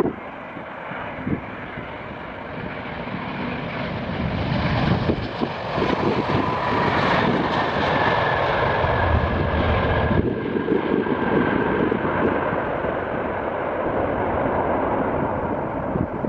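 Airbus A350 twin-engine jet on its landing approach. The engine rush swells over the first several seconds, then holds loud with a faint whine, while strong wind buffets the microphone.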